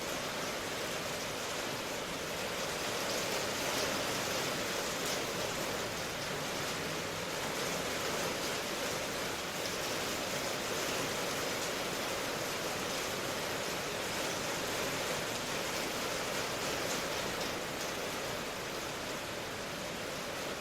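Steady rain noise, an even hiss that does not change or break.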